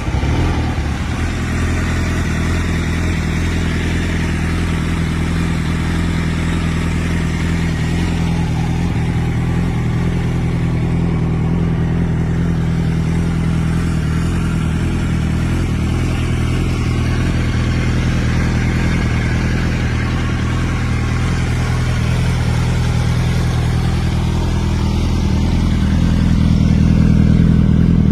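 A Yamaha YZF-R1 RN12's 998 cc inline-four, with a Yoshimura exhaust, idling steadily just after being started. The idle rises slightly and gets a little louder over the last few seconds.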